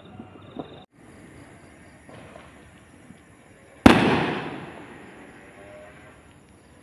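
A single loud firework burst about four seconds in, its echo rumbling and fading away over the next two seconds.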